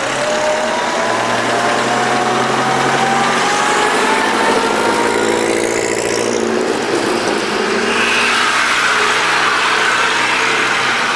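A motor vehicle engine running, with a thin whine that rises steadily in pitch over the first six seconds or so.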